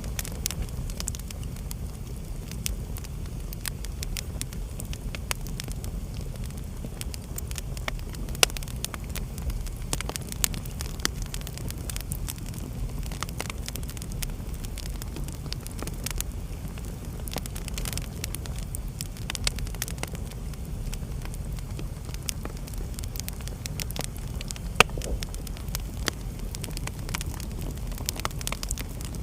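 Wood fire burning in a fireplace: a steady low rumble of flame with frequent sharp crackles and pops, two louder pops about a third of the way in and near the end.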